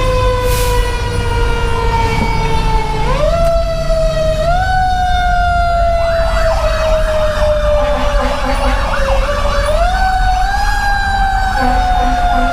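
Federal Q2B mechanical siren on a 2010 Pierce Velocity fire engine, wound up quickly three times and coasting slowly down in pitch in between, over steady diesel and road rumble. From about halfway a faster warbling siren sounds with it, and a low tone pulses in short repeated blasts near the end.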